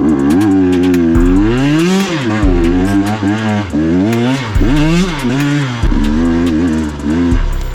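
KTM 125 XC two-stroke dirt bike engine revving up and down in repeated throttle blips, the pitch rising and falling every second or so.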